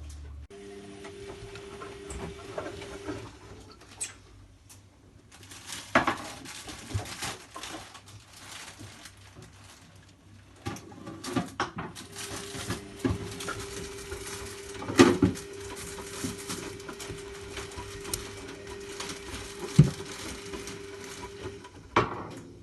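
Zanussi Lindo 100 washing machine in its wash phase: a steady motor hum as the drum turns, stopping and starting again after a pause of several seconds. Knocks and clatter of dishes or other household items mix with it.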